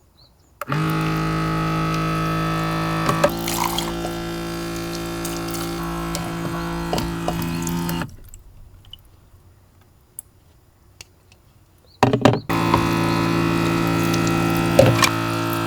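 A small motor humming steadily while water pours. It runs for about seven seconds, stops, and starts again about twelve seconds in.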